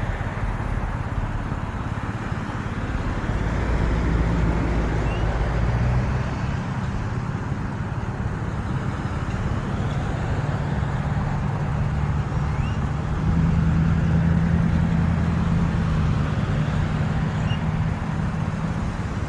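Road vehicles running: a steady low engine hum with traffic noise, swelling twice, about four seconds in and again around fourteen seconds.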